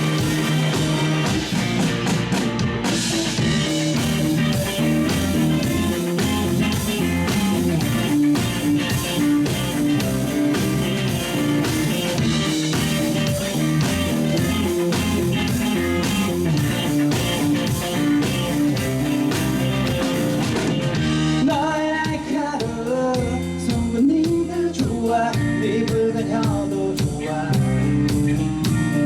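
Live rock band playing with electric guitars and drum kit. About two-thirds of the way in the full band thins out and a sung vocal line comes forward over lighter accompaniment.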